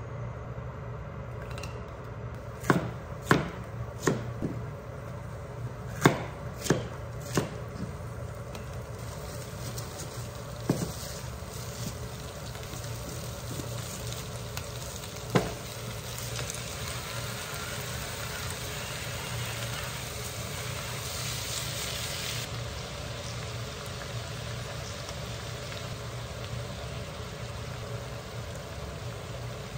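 Pork and vegetables sizzling as they stir-fry in a frying pan, the sizzle loudest for several seconds past the middle and then dropping off suddenly. In the first few seconds there is a run of about seven sharp clicks and knocks, with two more later, over a steady low hum.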